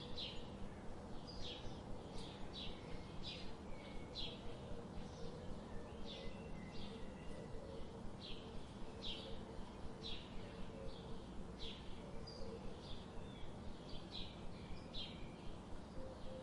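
Forest ambience: birds chirping in short, scattered notes over a steady low background noise.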